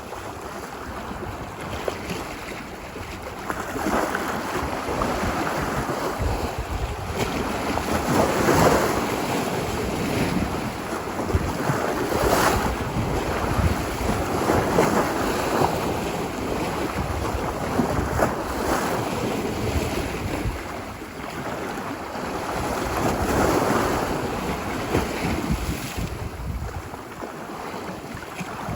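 Ocean waves breaking and washing up a beach, a continuous surf that swells and ebbs every few seconds. The wave peaks come near 4, 9, 12, 15, 18 and 24 seconds.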